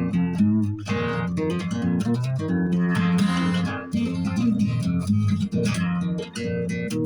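Guitar played with the fingers in a flat-picking style: a busy run of quick plucked single notes and chords.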